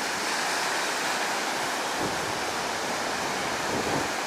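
High surf on a sandy beach, a steady rushing wash of breaking waves, the sea still rough after a typhoon.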